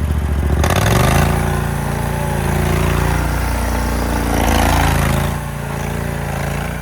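Vehicle engine revving up about a second in and holding at high revs under load, as when trying to drive or pull a vehicle out of mud, then easing off a little near the end.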